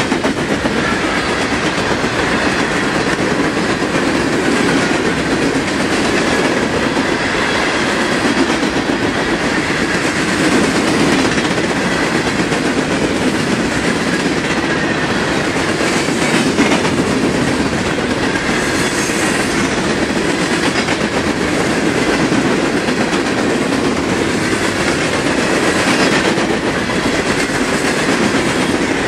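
An empty freight train of open-top rock cars rolling past close by, its steel wheels on the rails making a steady, continuous rolling noise.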